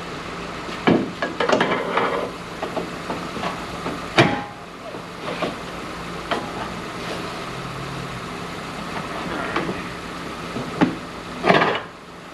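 Scattered metal knocks and clanks of tools and suspension parts as the front strut is worked loose from the lower control arm. The loudest knock comes about four seconds in, and a steady hum runs underneath.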